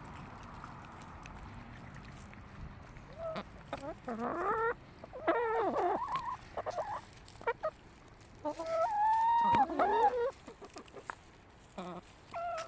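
Hens giving drawn-out squawks and clucks with wavering, gliding pitch as they feed. The calls come in several bouts, starting about three seconds in after a stretch of faint background.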